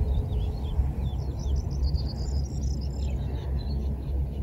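Small birds chirping and twittering in many short, quick calls over a steady low rumble.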